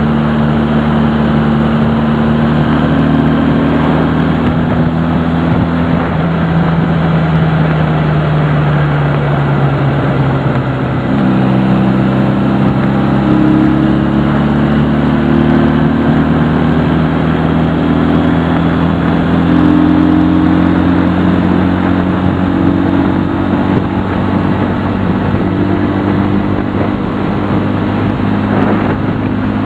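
A Honda CD175's air-cooled parallel-twin engine running under way. The engine note sinks slowly, then steps back up about eleven seconds in and holds fairly steady.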